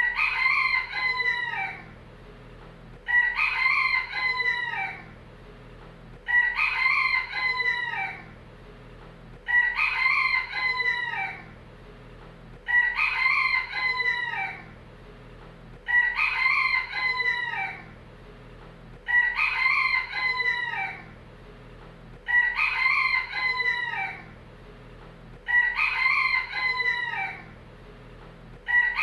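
Rooster crowing over and over, one cock-a-doodle-doo about every three seconds. Each crow is about two seconds long and looks identical to the others, like the same crow on a loop. A faint low hum runs between the crows.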